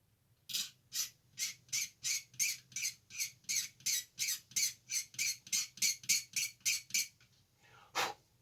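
Rapid, even scraping strokes on the edges of a plastic scale-model part, about four a second, cleaning the edges for gluing; they stop about seven seconds in, with one more stroke near the end.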